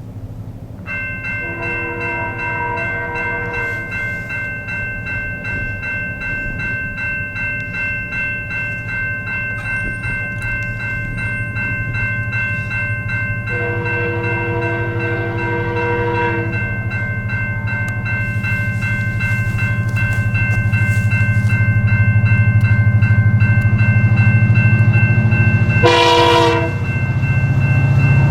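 A Canadian Pacific GP20C-ECO diesel locomotive approaches, sounding its multi-note air horn three times: a long blast about a second in, another about 13 seconds in and a short one near the end. Its diesel engine rumbles louder and louder as it nears. A steady, pulsing high ringing, typical of a grade-crossing bell, runs from about a second in.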